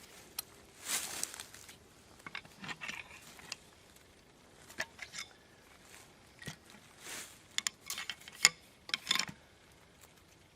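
Scattered clicks, knocks and short rustling scrapes at a low level, irregularly spaced, with a louder sharp knock about eight and a half seconds in.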